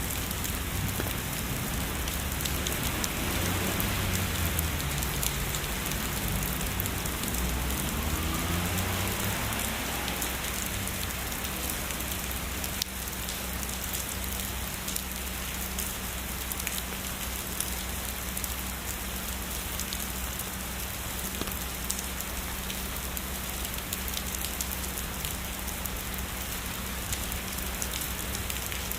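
Steady heavy rain, an even hiss of drops falling on a surface. A low rumble of distant thunder dies away during the first ten seconds or so.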